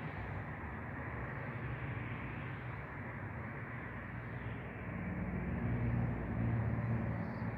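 Steady low background rumble and hiss, with a low hum that grows louder about five seconds in and eases off near the end.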